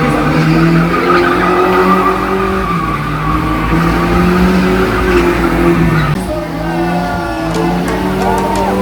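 Drift car engine held at high revs with tyres squealing and skidding on the pavement. About six seconds in, music with guitar comes in.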